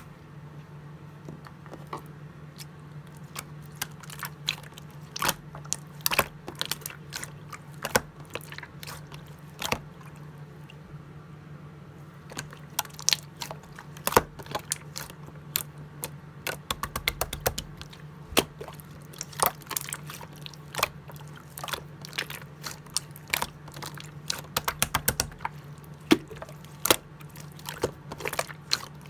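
Clear slime being pressed and squeezed by hand, giving many irregular sharp clicks and pops, with a steady low hum underneath.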